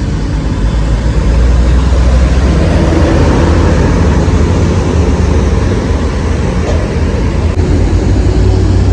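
Buses and cars passing close on a wet road in the rain: a steady deep engine-and-tyre rumble under a hissing wash, growing louder about a second in.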